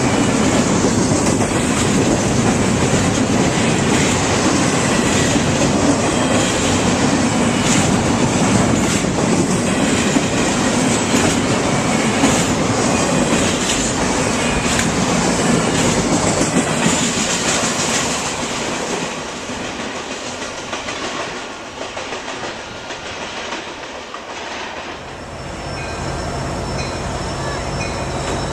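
A train rolling past, its wheels clacking over the rail joints. The noise eases off about two-thirds of the way through, and a steady low hum comes in near the end.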